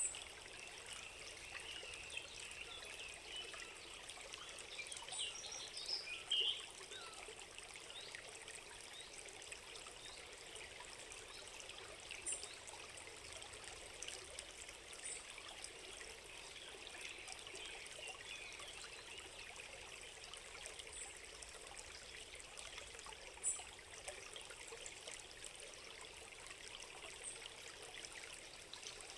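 Small stream trickling steadily, with a few short high chirps scattered over it, the loudest about six seconds in and another near the end.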